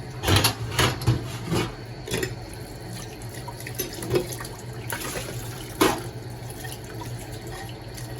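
Tap water running into a sink, with several sharp knocks and clinks of things being handled, most of them in the first couple of seconds and another near six seconds in.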